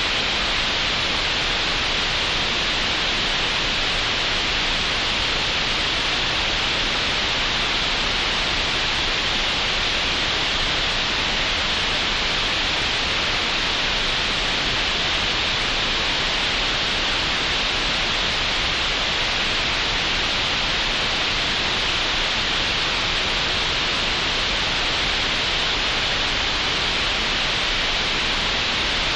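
Synthetic green noise generated in Audacity: a steady, unchanging hiss, brightest in the upper middle range.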